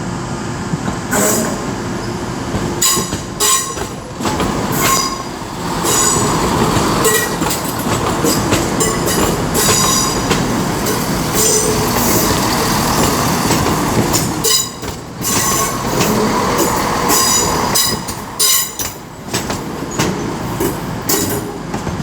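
CrossCountry class 170 Turbostar diesel multiple unit pulling out of the station past the platform, its wheels clicking repeatedly over rail joints and points, with some wheel squeal.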